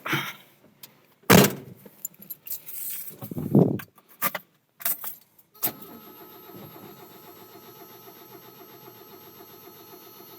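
Knocks and key jingling around the cab of a 1986 Mazda B2000 pickup, then from about six seconds in a faint, steady buzzing tone with an even pulse. The engine has not yet started.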